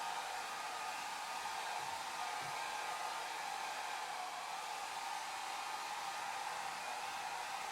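Hair dryer running steadily: a continuous, even airy hiss with a stronger band in the upper midrange, unchanging throughout.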